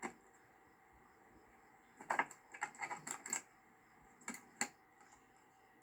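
Short, sharp plastic clicks and snaps of a car's interior fittings being worked by hand: one at the start, a quick run of clicks about two seconds in, then two more about a second later.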